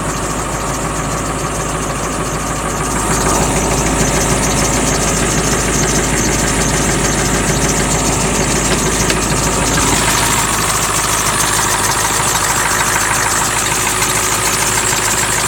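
Ford 7.3-litre turbodiesel V8 of a 1995 F450 idling steadily, a little louder from about three seconds in.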